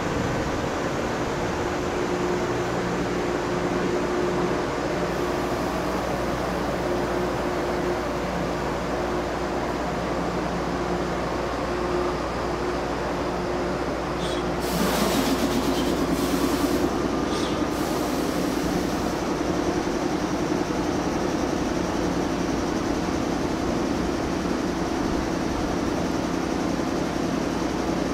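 A 413-series and 455-series electric multiple unit moving slowly through a station, a steady rumble with a constant hum. A louder burst of hissing comes about halfway through and lasts several seconds.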